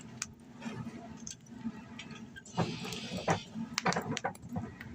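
Steel rebar fence posts clinking and scraping as they are rolled into place by hand, with several sharp metal knocks clustered between about two and a half and four and a half seconds in.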